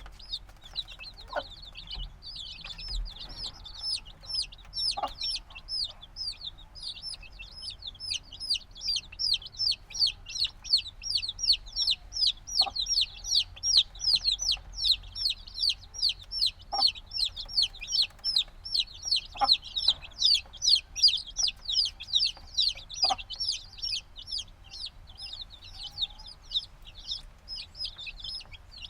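A brood of chicks a few days old peeping loudly and almost without pause, a dense run of quick high-pitched peeps that each fall in pitch, busiest in the middle. The steady peeping is typical of young chicks wanting warmth from a mother hen.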